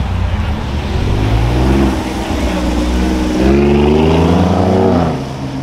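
A car engine being revved hard as the car accelerates away. Its pitch climbs, dips briefly, climbs again, and then the driver lets off near the end.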